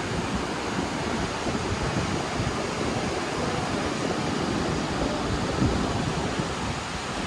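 Steady rushing noise of wind buffeting the microphone, with a rumble that rises and falls at the low end.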